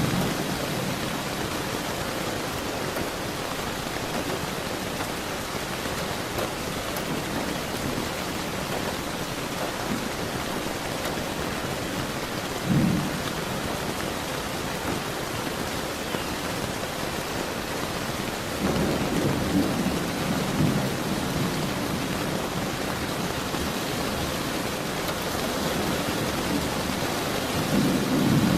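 Steady rain falling with thunder: a short low thunderclap about halfway through, a longer rumble of thunder a little later, and another rumble starting near the end.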